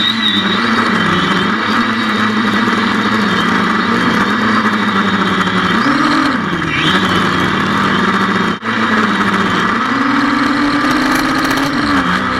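Xiaomi FIMI A3 quadcopter's motors and propellers whirring in flight, a steady whir over a hum whose pitch rises and falls a few times as the throttle changes. The sound briefly cuts out once, about two thirds of the way through.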